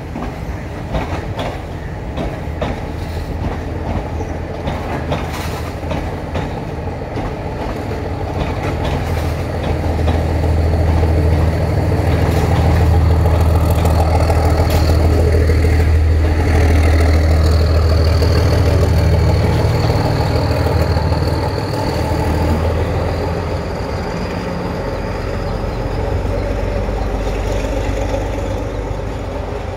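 Sri Lanka Railways Class S10 diesel multiple unit running past: wheels clicking over rail joints and points, then the diesel power car's deep engine drone swelling loud in the middle and fading as the train draws away. A thin high wheel squeal runs through the second half.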